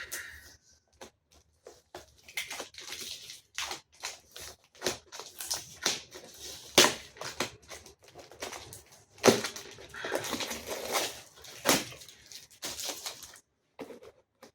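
Cardboard box and its packaging being pulled and worked open by hand: irregular crackling, rustling and sharp snaps, the loudest about seven, nine and twelve seconds in.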